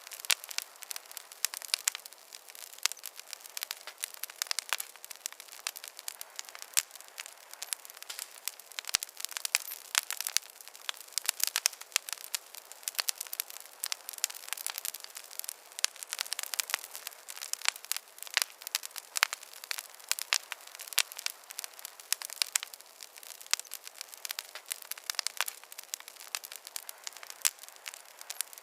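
Wood fire crackling in a fireplace: dense, irregular sharp pops and snaps over a soft hiss.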